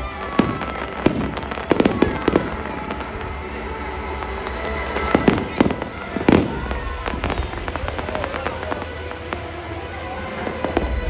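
Aerial fireworks bursting: a run of irregular sharp bangs and crackles, thickest in the first seven seconds and thinning out toward the end, over background music and voices.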